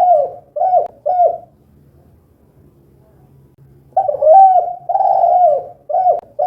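Spotted dove (tekukur) cooing. The close of one phrase comes first, with two short coos about a second in. After a pause of about two and a half seconds a full phrase follows: two longer coos and two short ones.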